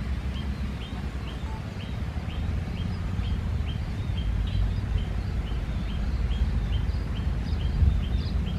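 A small bird chirping over and over in short, high notes, about two a second, over a low steady rumble.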